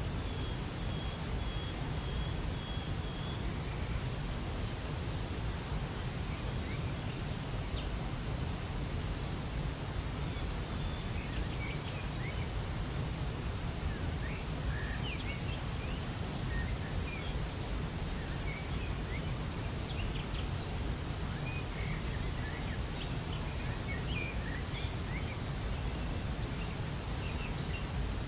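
Waterfall rushing steadily, with small birds chirping in short high notes scattered throughout and one held whistled note in the first few seconds.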